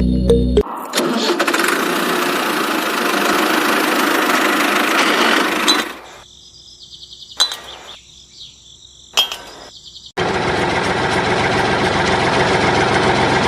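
A small engine running in two stretches: it cuts off about six seconds in and starts again about ten seconds in. In the quieter gap between them there is a faint high tone and two sharp clicks.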